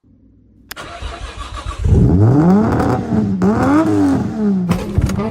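Car engine dubbed onto an animated race car, cutting in under a second in and then revving hard several times, its pitch climbing and dropping over and over, with a couple of abrupt breaks.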